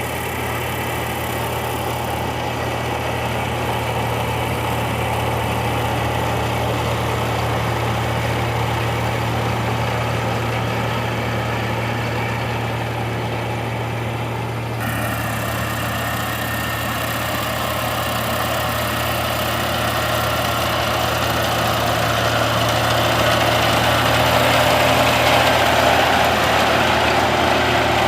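Rice combine harvester's diesel engine running steadily under a continuous low hum, with an abrupt change in the sound about halfway through and a slow rise in loudness near the end.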